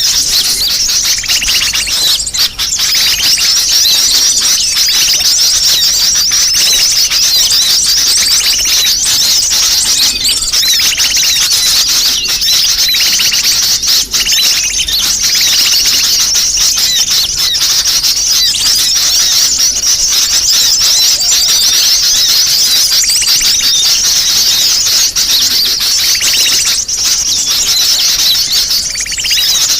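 Dense, unbroken high-pitched chirping and twittering of many sunbirds calling at once, a busy 'ribut' lure recording used to draw small birds in.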